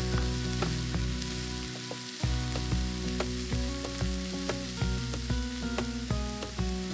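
Food sizzling as it fries in a pan, under background music with steady low notes and sharp plucked clicks.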